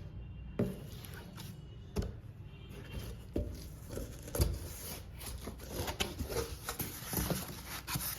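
Cardboard packing box being cut open and handled: irregular snips, scrapes and knocks, with a few sharper knocks about two and four and a half seconds in.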